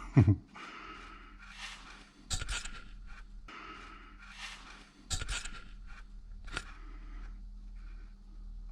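Metal hand tools clinking and scraping on a Volvo M46 gearbox as a plug is worked loose to check for oil, with a few sharp clicks among short scrapes.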